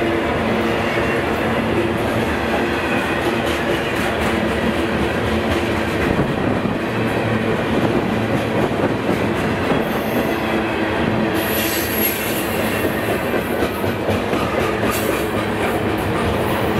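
Railway cars rolling past on the track, a steady loud rumble and clatter of steel wheels on rail. Brief high-pitched wheel squeals come about ten seconds in, again just after eleven seconds, and near the end.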